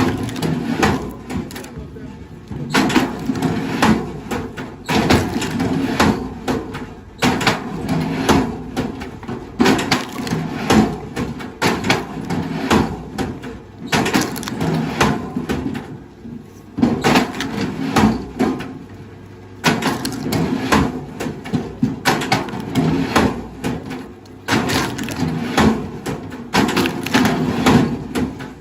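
Wood cracking and splintering under a machine's force, in repeated bouts every two to three seconds over a steady low engine hum.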